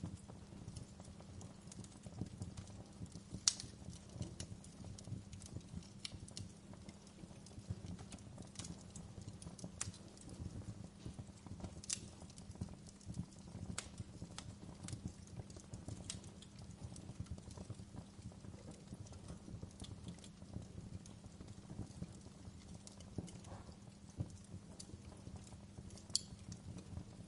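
Wood fire crackling in a fireplace, burning low and even: irregular sharp pops and snaps over a low, steady rumble, with a few louder pops.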